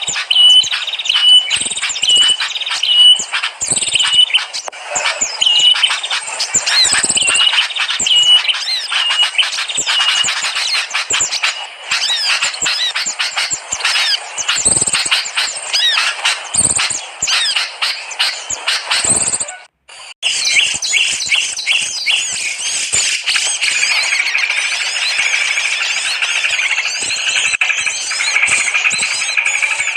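Recorded small-bird lure calls: short high chirps repeating about twice a second, then dense high twittering and trills. After a brief break about two-thirds of the way through, a different and denser twittering chorus.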